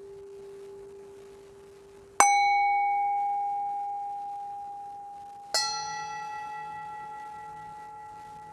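Two struck metal bell tones about three seconds apart, each a sharp strike that rings on with a long, slow decay. The second has more high overtones, with a slight wavering in one of them. The fading tail of an earlier, lower bell tone is heard at the start.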